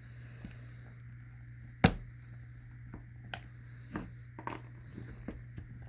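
Scattered clicks and knocks of plastic gas-mask parts being handled and worked apart, with one sharp click about two seconds in, over a steady low hum.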